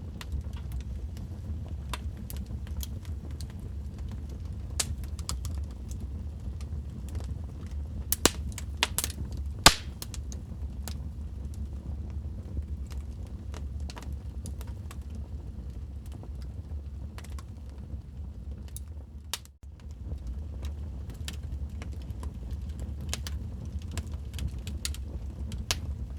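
Wood fire crackling and popping over a steady low rumble of the flames, with a run of louder pops about eight to ten seconds in. The sound briefly drops out about two-thirds of the way through.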